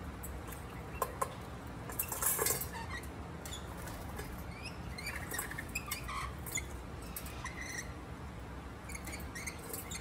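Wild birds chirping in short, scattered high calls, more often in the second half, with two sharp clicks about a second in and a brief rustle around two seconds.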